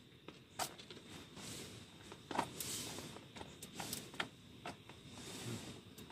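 Scattered light clicks and taps with short spells of soft rustling, as of small things being picked up and put away by hand.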